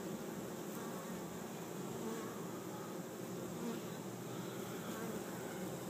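Honey bee swarm buzzing steadily as thousands of bees crowd into a hive entrance.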